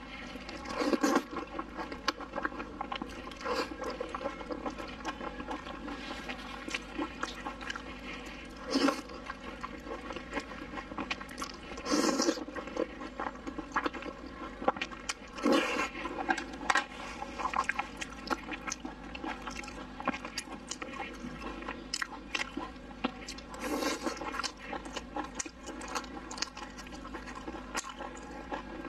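Close-miked eating sounds: soft biting, wet chewing and smacking of sauce-soaked fried eggplant, mushroom and meat skewers, a continuous run of small irregular clicks with a handful of louder bursts.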